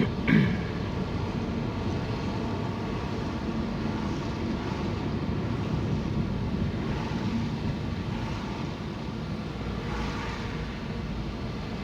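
Steady low road-vehicle running noise, with a brief louder sound about a third of a second in.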